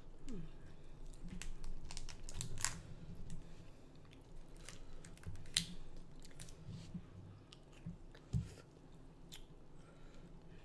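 Close-miked chewing with scattered sharp clicks and crackles of shellfish shell being peeled apart by hand, and a soft low thump about eight seconds in.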